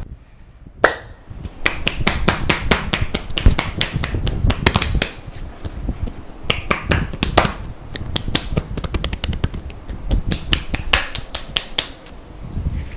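Hands striking a person's neck, shoulders and upper back in a strong percussive massage: a rapid, irregular run of sharp slaps and taps that begins about a second in.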